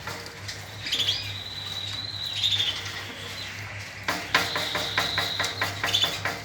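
Pet canaries singing: a high whistled note held for about a second and a half, twice, with a run of quick sharp chirps in the second half.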